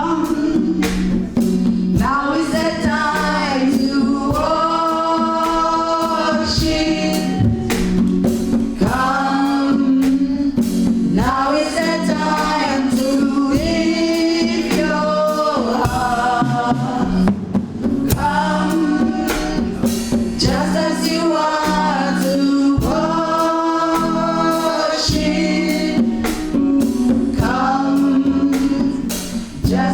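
Gospel choir singing a slow worship song in phrases of a few seconds, with keyboard and drum-kit accompaniment.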